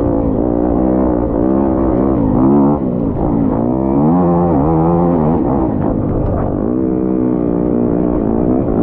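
Off-road motorcycle engine under load, its revs rising and falling again and again as the throttle is worked.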